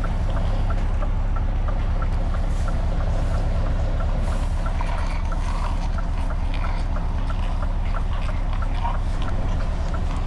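Scania S truck's diesel engine running steadily through open exhaust pipes while cruising, a deep even pulse with a faint regular ticking above it.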